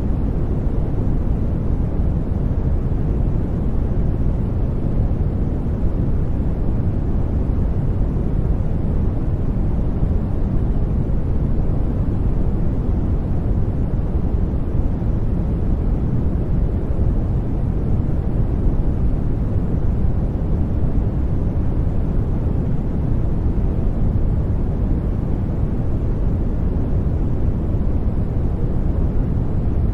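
Brown noise: a steady, deep rumbling hiss, strongest in the bass and falling away toward the treble, unchanging throughout.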